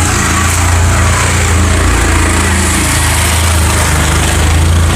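A small engine running steadily and loudly, holding a fairly even low pitch.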